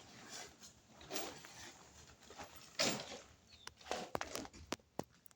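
Irregular rustling and scraping with several sharp clicks and knocks, busier in the second half: someone handling fittings and tools by hand.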